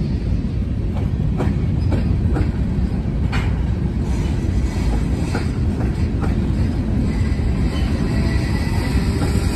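Freight train's covered hopper cars rolling past: a steady low rumble of steel wheels on rail, broken by irregular sharp clicks and clanks as the wheels cross rail joints. Faint high steady tones join in about two-thirds of the way through.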